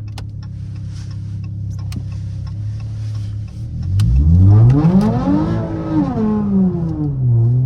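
Straight-piped V6 Dodge Charger exhaust running steadily at low revs, then about four seconds in the engine is floored and revs hard, its pitch climbing for about two seconds before dropping back. This is hard throttle to kick the rear out and slide the car on the wet road.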